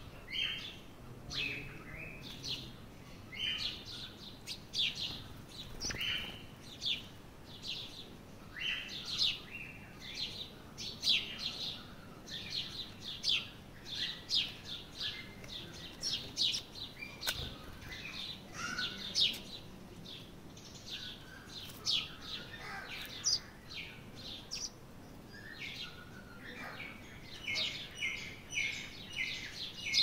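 Birds chirping: short, high calls repeated in quick runs, often two or three a second, with brief pauses between runs.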